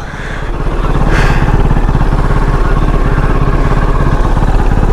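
Kove 450 Rally's single-cylinder engine running as the motorcycle rides along, growing louder over the first second as the throttle is opened, then holding steady.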